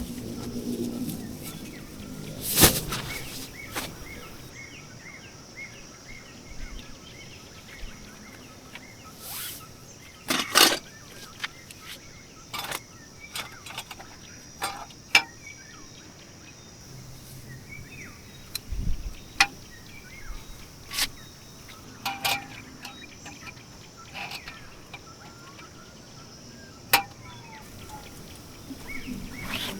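Camping gear being handled and set up: sharp clicks and knocks at irregular intervals. Under them run a steady high hiss and faint bird chirps.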